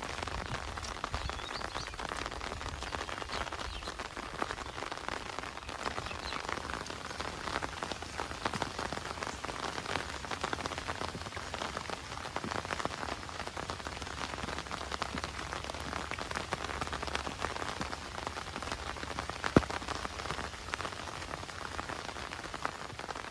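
Heavy rain falling steadily, a dense patter of drops on surfaces. One sharp knock stands out late on.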